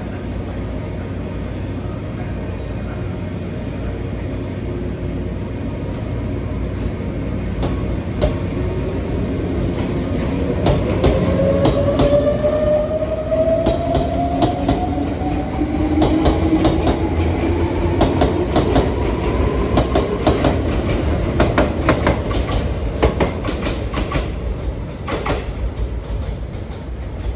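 Izu Kyuko Resort 21 electric train running, its motor whine rising in pitch from about ten seconds in as it picks up speed. Rapid wheel clicks over rail joints follow the whine through the middle and late part.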